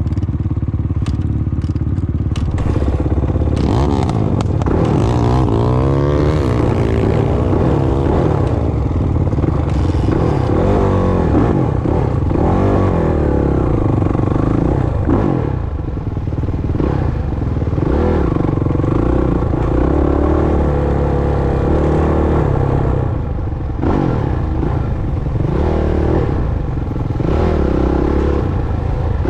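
Off-road motocross motorcycle engines revving, the pitch climbing and dropping again and again through gear changes, with rattling and clatter from the ride.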